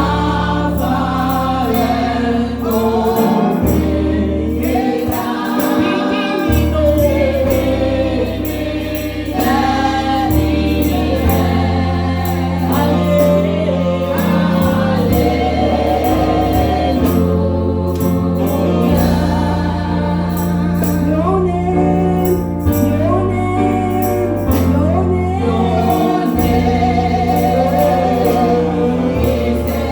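Gospel praise music with a choir singing over a bass line and a steady beat.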